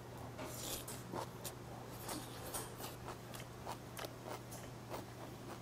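A person chewing a mouthful of seasoned spinach and fresh cabbage kimchi with the mouth closed: soft wet mouth clicks and smacks scattered through, with a couple of brief crunchy or hissy bits.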